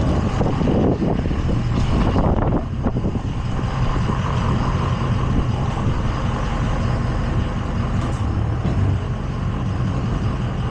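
Tow truck's engine running steadily at idle, with a few short knocks in the first three seconds.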